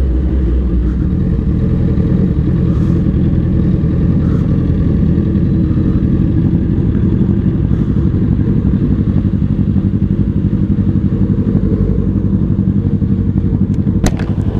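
Big-bike motorcycle engine running steadily while riding, heard from on the bike, with a couple of sharp clicks near the end.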